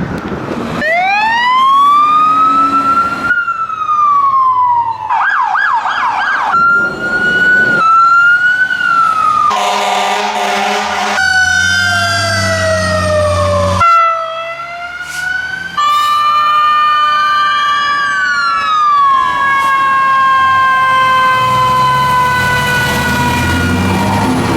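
Fire truck sirens responding: slow rising and falling wails, a fast yelp, and an air-horn blast in the middle. The sirens then slide down in pitch as the trucks pass, and a heavy truck's diesel engine drones near the end.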